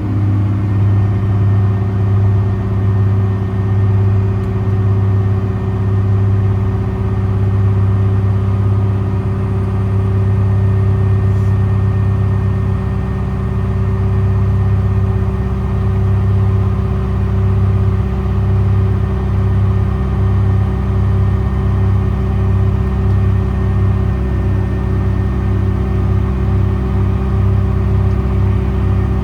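American Eagle hydraulic-driven air compressor running on the service truck, together with the Paccar PX9 diesel engine idling: a steady mechanical hum that takes on a fast, even pulsing about halfway through.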